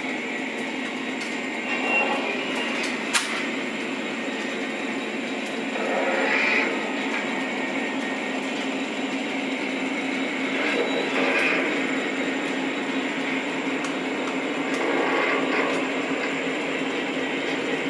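O-scale three-rail model train rolling around a layout: a steady rumble of wheels on track that swells every four or five seconds, with one sharp click about three seconds in.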